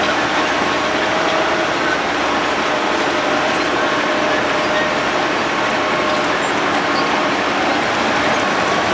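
Road planer (cold milling machine) at work: a loud, steady machine noise with a faint whine over it.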